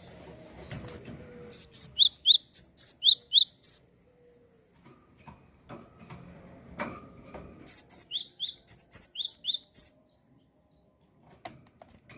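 Gelatik songbird chirping in two quick bouts of high, sharp notes, each note a fast downward sweep, about ten notes in two seconds each time. The first bout comes about a second and a half in, the second near eight seconds, with faint clicks between.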